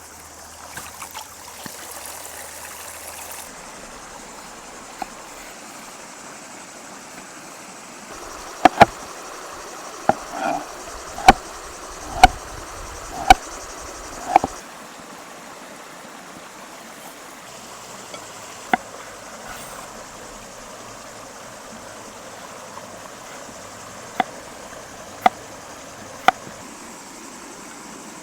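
Steady rush of flowing water, with sharp knocks on top: a run of about seven roughly a second apart in the middle, then a few more near the end.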